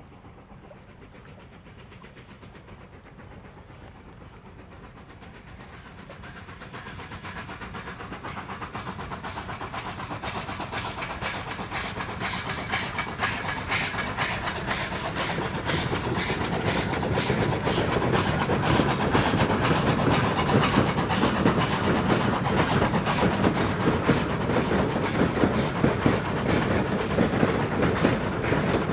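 Narrow-gauge steam train approaching and rolling across a wooden trestle, its wheels clicking over the rail joints. It grows steadily from faint to loud over the first half, then stays loud with a dense rumble as the passenger cars pass.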